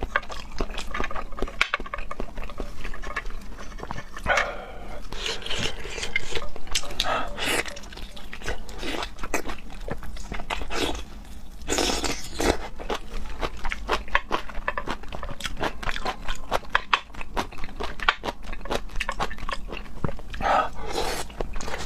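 Close-miked eating of raw seafood: wet chewing with dense, irregular mouth clicks and smacks, and a few longer wet, noisy stretches, the longest about twelve seconds in.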